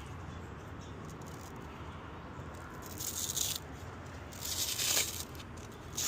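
Aerosol spray paint can hissing in two short bursts, about three seconds in and again near the end, over a low steady background.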